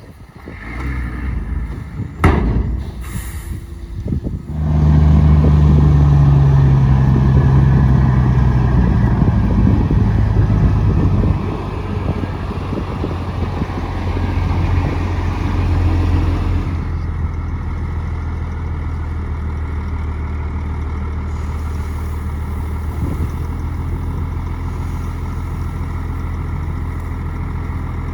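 A few sharp knocks, then about four and a half seconds in a heavy diesel engine comes in loud, working hard. After about eleven seconds it eases to a steadier, lower level and keeps running.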